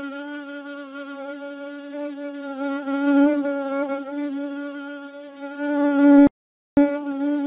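A fly buzzing in flight: a steady droning hum that wavers slightly in pitch and loudness. It cuts out about six seconds in and starts again half a second later.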